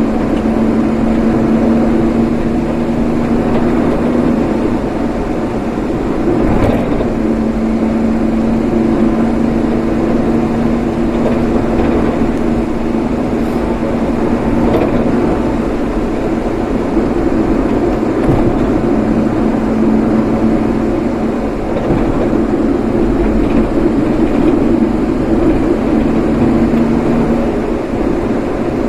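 Steady engine and road noise from a vehicle being driven, with a constant low hum.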